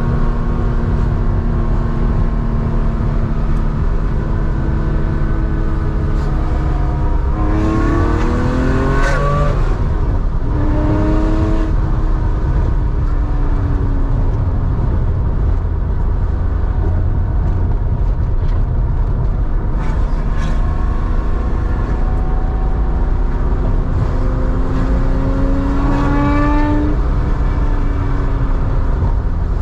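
1987 Porsche 911's 3.4-litre air-cooled flat-six running through a Scart two-in-one-out muffler under way. The engine note holds steady, climbs in pitch through the revs about a quarter of the way in and again near the end, then drops back, over a deep continuous exhaust rumble.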